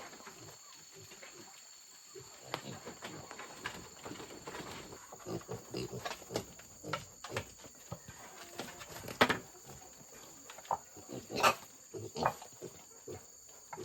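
Insects trilling steadily at two high pitches, with irregular sharp knocks and rustles that grow more frequent after the first few seconds; the loudest knocks come about two-thirds of the way in and near the end.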